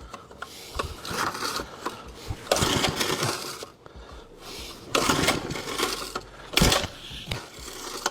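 Small engine being cranked with its recoil pull-starter, several pulls of about a second each, the rope whirring and the engine turning over without catching. The cranking is a spark check, and this engine has spark.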